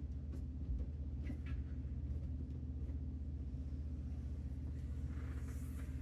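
Steady low hum with a fast pulsing texture, over a few faint light taps in the first two seconds as the kitchen sink is settled into place, and a short hiss near the end.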